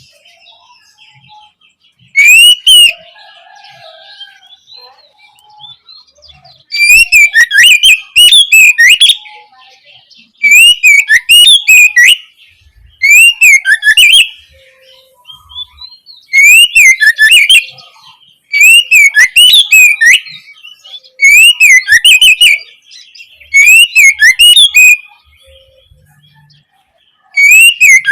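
Oriental magpie-robin (kacer) singing loudly in a run of short phrases of swooping, rising-and-falling whistled notes. Each phrase lasts a second or two and is followed by a pause of about a second.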